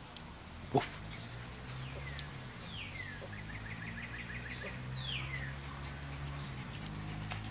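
A songbird singing outdoors: a falling whistle, a quick run of about eight short chirps, then another falling whistle. A sharp click about a second in is the loudest sound, over a low steady hum.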